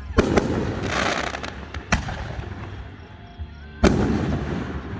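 Aerial fireworks bursting: sharp booms about a fifth of a second in, near two seconds and near four seconds. Each is followed by a crackling fizz as the shells break.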